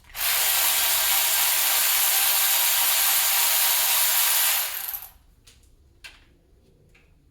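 A loud, steady hiss that starts and stops abruptly, lasting about four and a half seconds, followed by a few light clicks.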